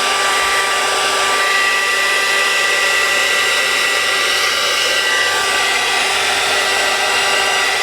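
Craft heat tool running steadily, blowing hot air to dry wet watercolour paint: an even rush of air with a steady whine in it.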